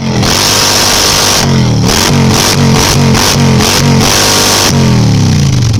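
Harley-Davidson V-twin engine being revved hard: a stretch of high revs, then a run of about six quick throttle blips, each rising and falling, and then the revs dropping back toward idle near the end.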